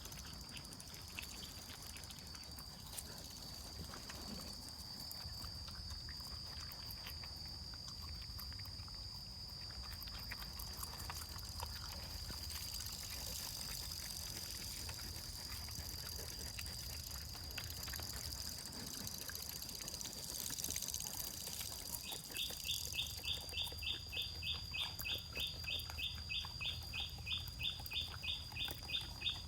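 Wild outdoor ambience: a steady high-pitched trill runs throughout, with faint scattered clicks of porcupines chewing mango. About three quarters of the way in, a rapid, evenly spaced chirping starts, about three calls a second, and becomes the loudest sound.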